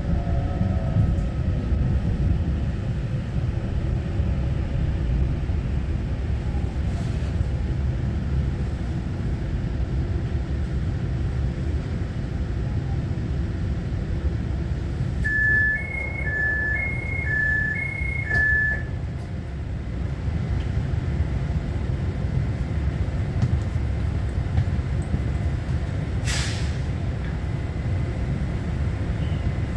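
Steady low rumble inside an EMU900-series electric multiple unit commuter train. About halfway through, an electronic chime alternates between two tones, beeping about seven times, typical of the door-closing warning at a station stop. Near the end there is a brief hiss of air.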